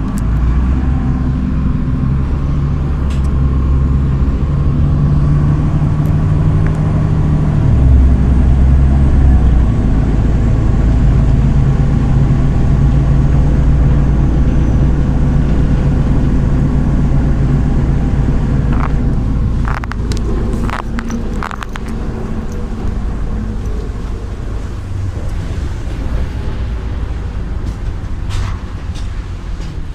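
MAZ 103 city bus under way, its engine running with a steady low hum; the engine note steps about eight seconds in, and the bus eases off a little before the twentieth second, when a few sharp clicks or rattles come through.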